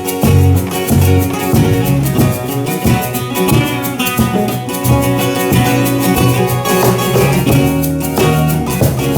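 Live acoustic country band playing an instrumental passage: strummed acoustic guitar keeping a steady rhythm over low bass notes, with no singing.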